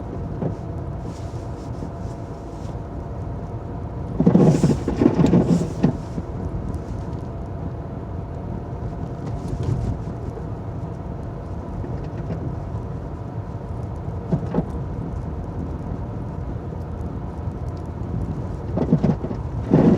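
Steady low rumble of a car's engine and road noise heard from inside the cabin, driving slowly on snowy roads. There is a louder burst about four seconds in and another near the end.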